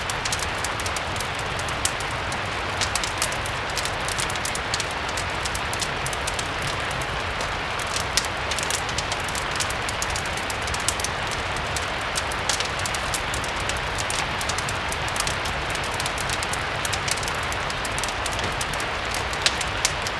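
Steady rain mixed with the frequent sharp crackles of a wood fire, over a low rumble.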